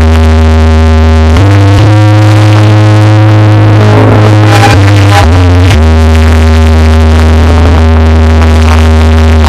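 Very loud DJ dance music blasted from a sound horeg sound system: sustained synthesizer chords over a heavy, booming bass, with the chord shifting a few times.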